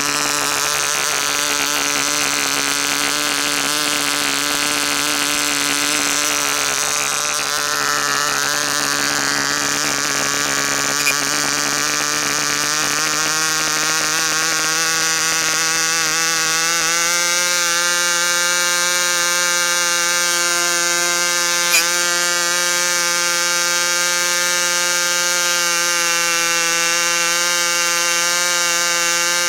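Enya 15 CX two-stroke glow-plug model engine running steadily with a 9x5 propeller during its run-in, on 10% nitro fuel. Its pitch rises a little about 17 seconds in and then holds; two short clicks are heard, near 11 and 22 seconds.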